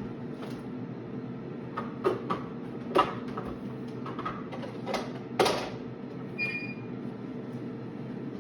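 Steady hum of a running kitchen appliance, with a handful of sharp knocks and clicks from things being handled and set down, and a brief high tone a little after six seconds in.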